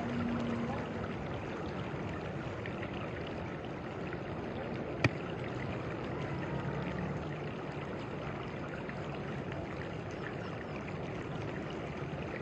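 Steady sound of flowing stream water, with one sharp click about five seconds in.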